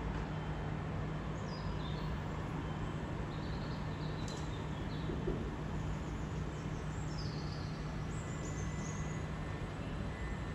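Steady low rumble with a constant low hum, and a few short, high bird chirps scattered through it.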